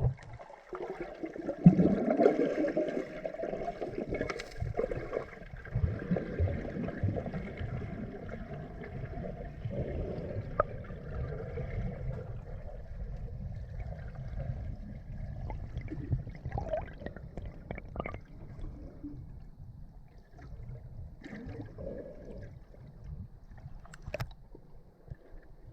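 Water splashing and gurgling as someone moves through a valley stream.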